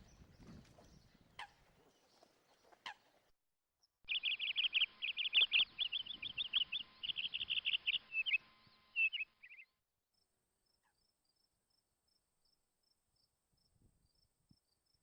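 A bird calling in a fast, dense run of high chirping notes for about five seconds, starting about four seconds in. It is followed by faint, evenly spaced high chirps.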